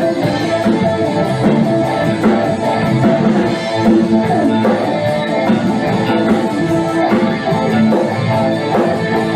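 A band playing an instrumental passage: guitar over a drum kit keeping a steady beat.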